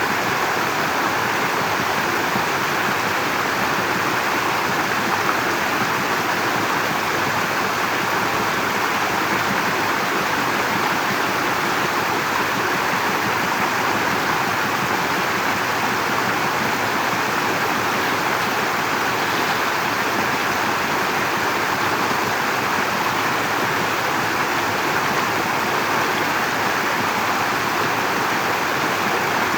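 Steady rushing of running or spraying water, unbroken and even in level.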